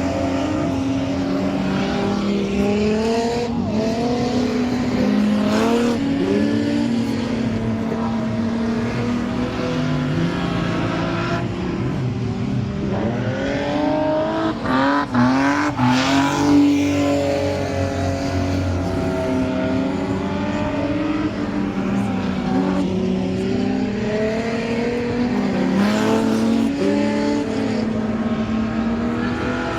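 Several stock car engines running together in a race, their pitch rising and falling as the cars lap the track, with a cluster of engines accelerating hard about halfway through.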